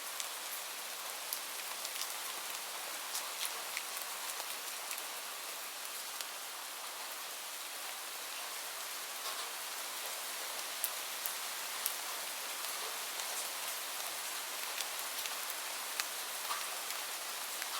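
Steady rain falling: an even hiss with many scattered, sharp ticks of individual drops.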